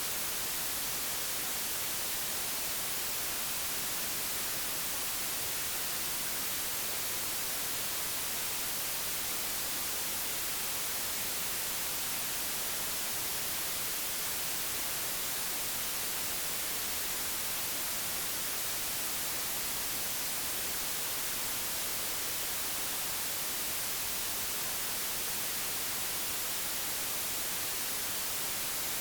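Steady, even white noise: a constant hiss, brightest in the highs, with no change or events.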